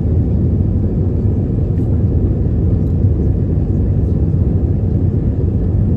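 Steady low rumble of an Airbus A319-111's CFM56 jet engines and rushing air, heard inside the passenger cabin.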